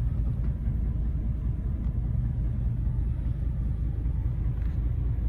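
Steady low rumble of a pickup truck's engine and tyres, heard from inside the cab while driving.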